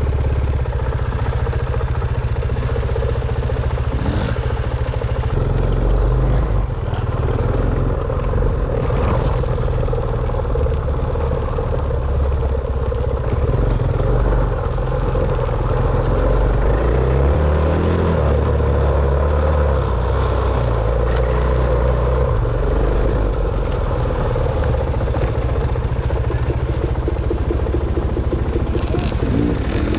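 Dirt bike engine running as it is ridden, its pitch rising and falling with the throttle, with clattering throughout.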